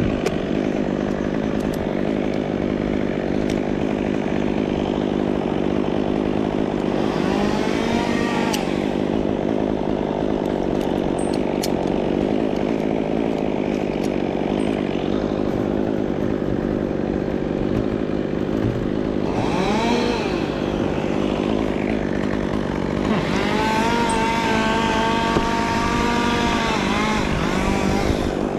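Chainsaw engine running steadily, revved up three times. The third and longest spell, near the end, has the pitch rising and sagging as the chain meets load.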